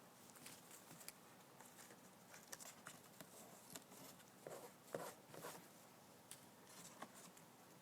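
Umbrella cockatoo chewing and tearing at cardboard: faint, irregular crunching clicks, the loudest about five seconds in.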